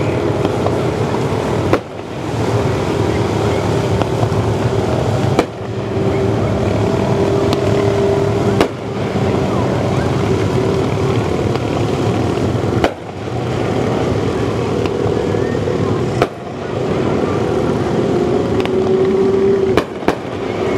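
Mini sprint race cars with motorcycle engines running on the track, a steady engine drone that swells and slides in pitch as cars come by. The sound breaks off abruptly every three to four seconds.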